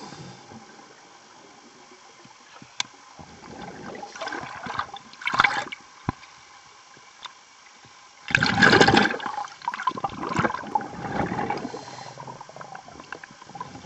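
Underwater rush of bubbles in bursts: a short one about four to five seconds in, then a louder, longer one from about eight seconds that trails off in several smaller surges, typical of a scuba diver exhaling through a regulator.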